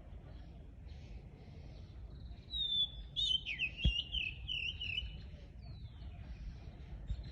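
Wild songbirds chirping. About two and a half seconds in, one bird close by sings a quick twittering phrase of varied, bending notes lasting a couple of seconds, while fainter chirps from other birds carry on throughout.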